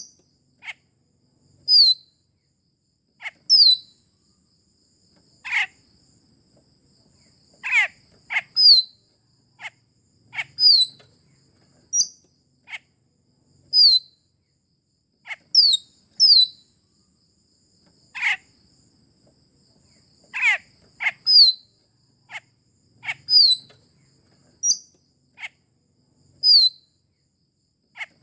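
Sulawesi raja perling (a starling) calling: short, sharp, high calls that sweep downward, repeated every second or two. A thin, steady high-pitched insect-like buzz runs behind much of it.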